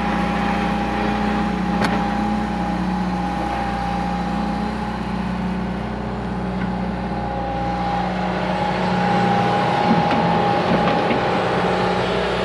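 Diesel engine of an earthmoving machine running steadily while it digs, with a steady whine above the engine's hum.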